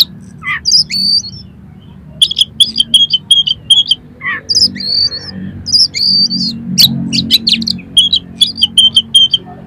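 Oriental magpie-robin singing: quick runs of short, sharp repeated notes alternating with whistled, warbling phrases, over a low steady background hum.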